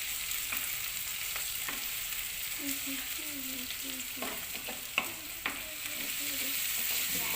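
Onions frying in oil in a clay cooking pot, sizzling steadily, while a spoon stirs them with a few sharp scrapes and taps against the pot.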